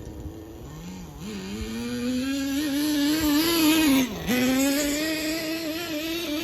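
Small nitro engine of a 1/10 scale FTX Zorro trophy truck running and revving. It climbs to a steady high pitch about a second in, drops sharply off throttle just after four seconds, then picks back up.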